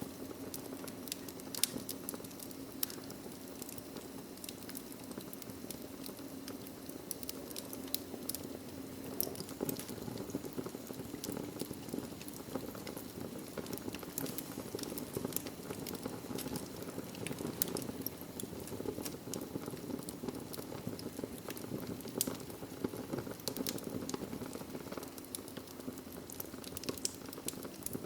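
Wood fire burning in a fireplace: logs crackling with frequent sharp pops over a steady low rush of flame.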